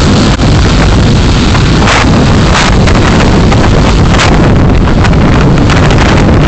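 Loud road and wind noise picked up by a dashcam's microphone while driving, with a few brief knocks, as from bumps in the road.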